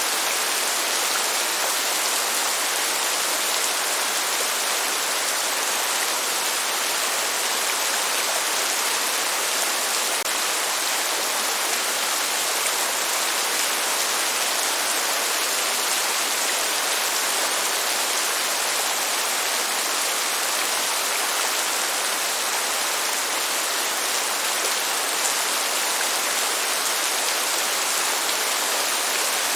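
Steady rain falling as an even, unbroken hiss, with no thunder.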